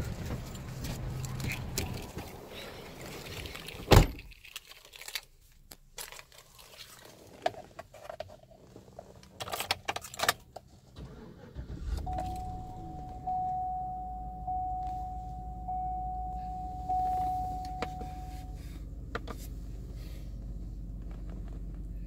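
Keys jangling and a sharp thump, then the 2011 Chevrolet Tahoe's V8 starts about twelve seconds in and idles with a low, steady rumble. Over the idle a single-tone warning chime pulses about once a second for some six seconds.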